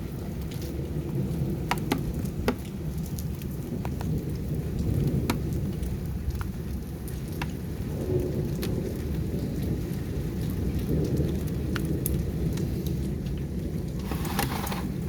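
Heavy storm rain falling, with scattered drops ticking sharply on nearby surfaces over a steady low rumble. A short rushing hiss comes near the end.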